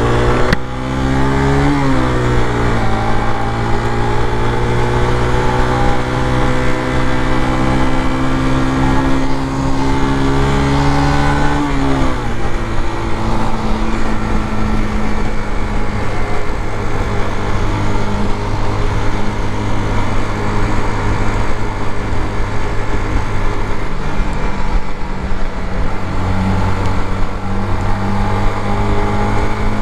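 Suzuki GZ250's 250cc single-cylinder engine pulling under load. Its pitch climbs steadily and drops sharply on an upshift about half a second in and again about twelve seconds in. After that it settles into an even drone at freeway cruising speed.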